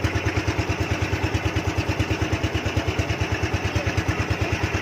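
Boat engine running steadily, a low even chugging of about seven beats a second.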